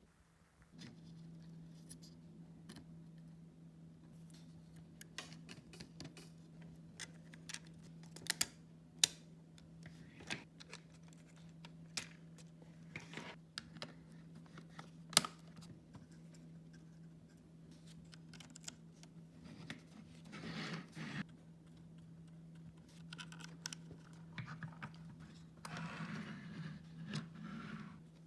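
Irregular sharp clicks and short scrapes of hard 3D-printed plastic parts being handled and fitted together, over a faint steady low hum.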